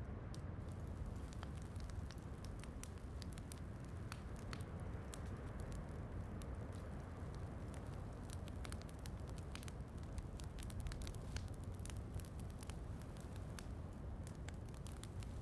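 Wood fire crackling, with frequent small sharp pops, over a steady low rush of falling rain.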